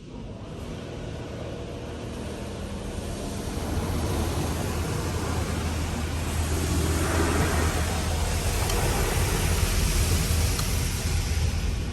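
PDQ Laserwash 360+ touch-free car wash machinery running: a rushing noise with a low motor hum that starts suddenly and grows louder over several seconds.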